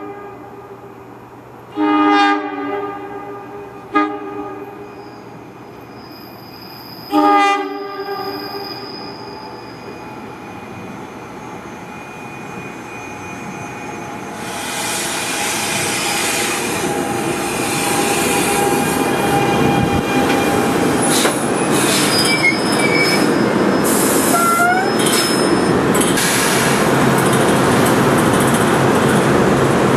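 Air horn of an NJ Transit Arrow III electric multiple-unit train sounding the end of the grade-crossing signal: a long blast, a short one, then a final long one. The train then rolls into the station, growing steadily louder, with a few brief metallic squeals from the wheels or brakes in the second half.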